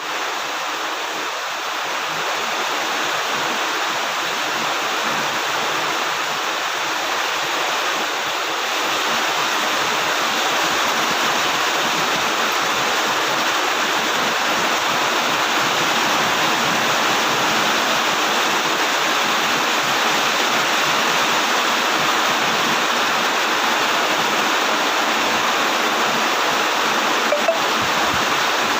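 Heavy rain falling in a steady, dense hiss that starts abruptly and grows a little louder over the first few seconds, with one small tick near the end.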